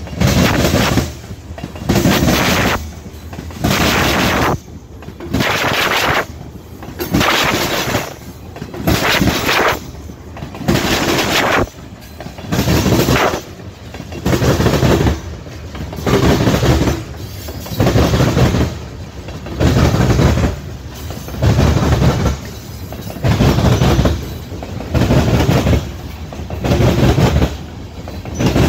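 Covered hopper cars of a freight train rolling past at close range, their steel wheels clattering over the track in loud rhythmic bursts about once a second as each car's wheel sets pass.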